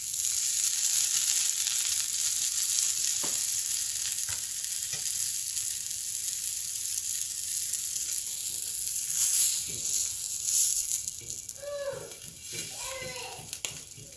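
Butter sizzling on a hot iron tawa as a stuffed dabeli bun toasts in it: a steady frying hiss that grows quieter near the end.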